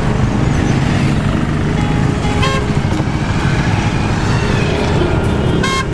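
Road traffic with vehicle engines running steadily, and two short horn toots: one about two and a half seconds in and one near the end.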